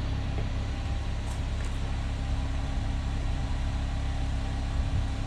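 Daihatsu Taft's three-cylinder engine idling, a steady low rumble with an even hum.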